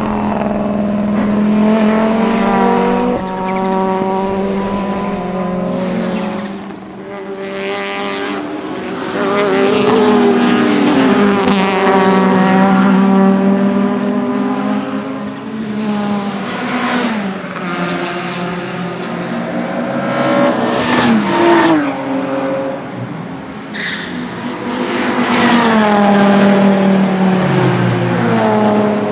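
1989 Audi 200 Turbo Quattro's 2.2-litre turbocharged five-cylinder engine pulling hard at racing speed, the revs climbing through the gears and dropping sharply several times as the throttle lifts. Short turbo chirps sound at the lifts.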